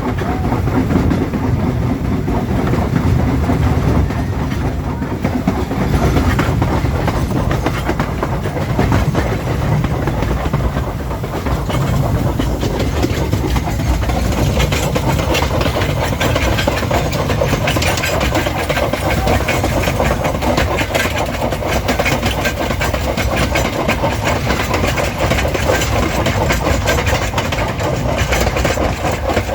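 Vintage train running along the line, with a steady rumble and many short clicks from the wheels on the track.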